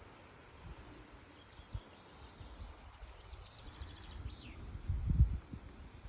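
A small songbird singing: a run of high chirps that quickens into a short trill and ends in a falling note, over a steady outdoor hiss. Low buffeting rumbles on the microphone about a second and a half in and, loudest, near the end.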